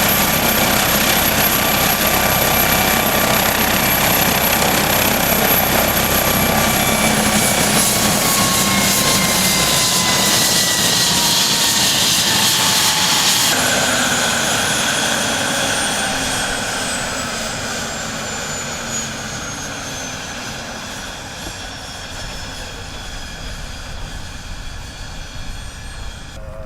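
MD-900 Explorer police helicopter's turbine engines spooling down at shutdown: a steady turbine whine over loud rushing noise begins sliding down in pitch after about six seconds, the rushing noise drops away suddenly about halfway, and the whines keep falling as the sound fades.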